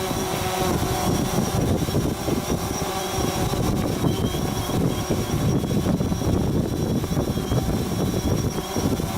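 DJI Phantom 4 quadcopter's motors and propellers whining steadily, with strong wind buffeting the microphone.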